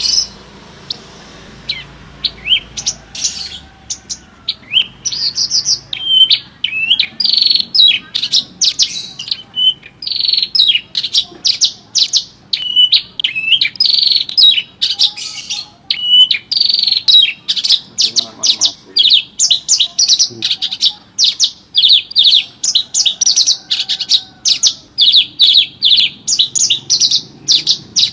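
Javan bush lark (branjangan) in full song: a fast, unbroken run of sharp high chirps and quick falling whistles, several notes a second.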